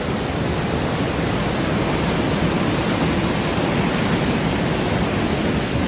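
Steady, loud rush of flowing water: the stream channelled to drive a traditional Nepali water mill (ghatta).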